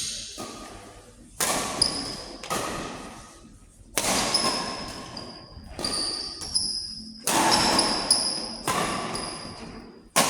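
Badminton doubles rally in a hall: a string of sharp racket hits, about one every second, each ringing out, with sneakers squeaking on the court floor between them.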